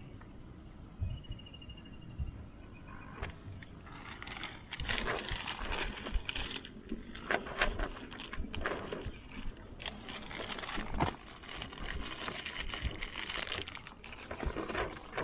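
Rustling with light metallic clinks, in uneven bursts starting about four seconds in, as things are handled.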